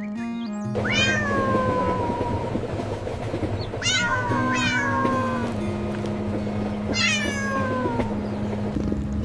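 A cat meowing four times over light background music: a long drawn-out meow about a second in, two short meows close together around the middle, and another long meow near the end.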